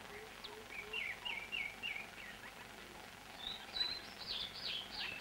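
Birds calling over a steady hiss: a quick run of low, evenly spaced notes at the start, then a series of chirped notes, then higher, sharper twittering about three and a half seconds in.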